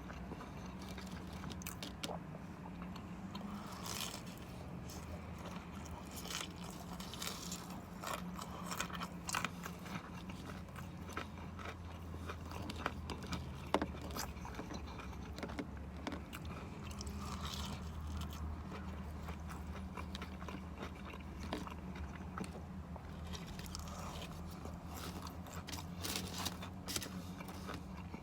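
Close-mic eating sounds: crunchy fried chicken tenders dipped in buffalo ranch being bitten and chewed, with many small crunches and wet mouth clicks. A low steady hum runs underneath.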